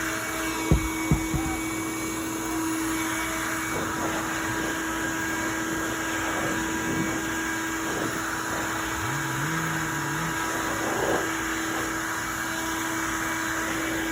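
Vacuum cleaner running steadily with an even motor whine, and two sharp knocks about a second in.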